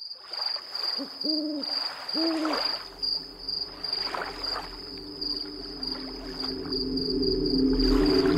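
Night ambience sound effects: an owl hoots twice, about a second apart, over a steady pulsing cricket chirp. From about six seconds in a low humming drone swells louder: the approaching flying saucer.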